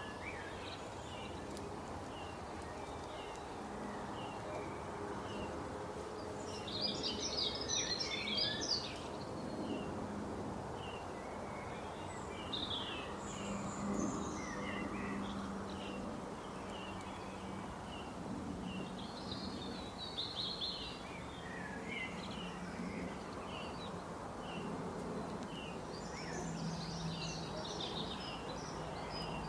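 Wild birds chirping and singing, with short high notes throughout and several bursts of fuller song, over a steady background hiss and low hum.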